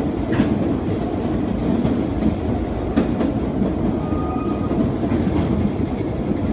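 Narrow-gauge Frisco Silver Dollar Line train rolling along the track: a steady rumble with a few sharp clicks of the wheels over rail joints.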